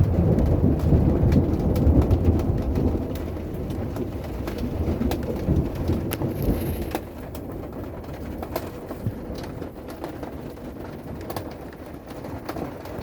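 Thunder rolling after a lightning flash: a loud low rumble that swells and then dies away about halfway through. Rain and scattered drips or ticks continue underneath.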